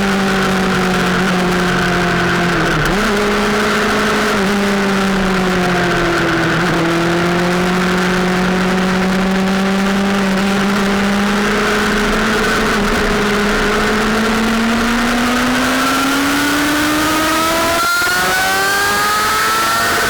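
Sportbike engine running under way on track, its pitch easing down slowly with a few brief breaks, then climbing steadily in a long pull toward the end, broken once briefly by a gear change.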